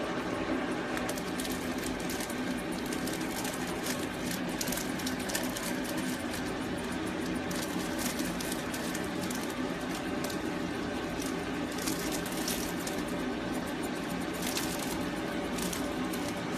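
Electric pet hair clippers running steadily with a buzz, with many sharp clicks scattered through it as the puppy's coat is trimmed.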